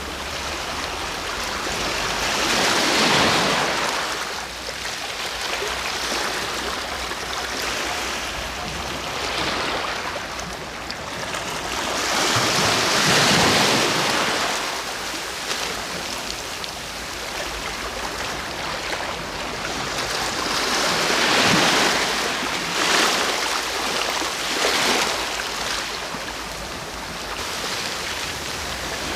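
Sea waves breaking and washing up the shore, a steady surf that swells into louder breakers about every eight to ten seconds.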